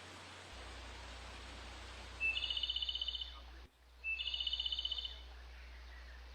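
A high, rapid trill twice, each about a second long and opening with a short lower note, over a steady low hum and faint hiss.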